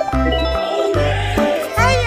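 Upbeat children's-style background music with a pulsing bass beat and bright jingling tones, and a quick rising cartoon sound effect near the end.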